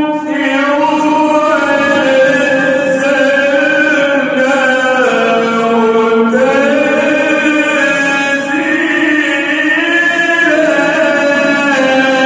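A male reciter chanting the Quran in the melodic tajweed style, drawing one word out into a long ornamented phrase. The pitch slides and turns, sinks lower around the middle, then climbs again.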